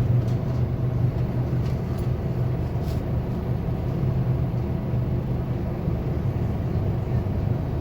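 A 2021 Scania K280UB4 city bus's five-cylinder diesel engine running with a steady low drone, with a few faint clicks.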